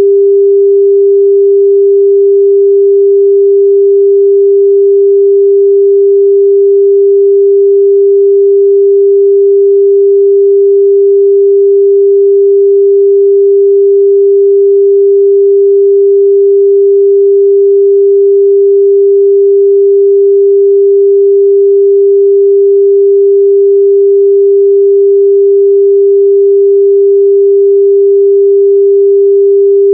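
A steady, loud 398 Hz sine-wave test tone, one pure unchanging pitch in the midrange, used to check a speaker's or headphone's frequency response.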